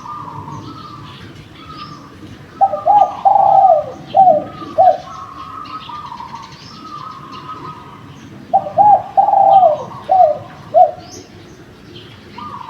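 Spotted doves cooing: a loud phrase of about five coos a few seconds in, repeated about six seconds later, over a second, fainter and higher-pitched dove cooing steadily throughout. Light chirping of small birds runs behind.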